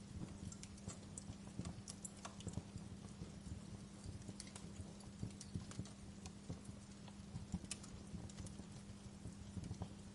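Fire crackling, with irregular sharp pops and snaps (a couple of louder ones about two and eight seconds in) over a steady low rumble.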